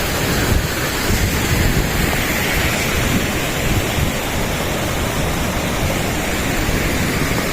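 Hadapan Ella waterfall running full, a steady loud rush of falling water carrying more water than on other days.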